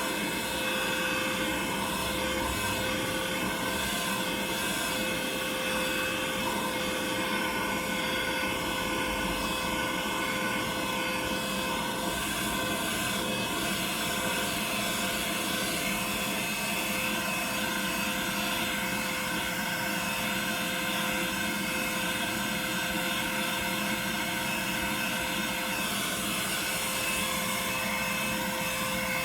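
Vacuum cleaner running steadily, a constant motor whine with a rushing of air.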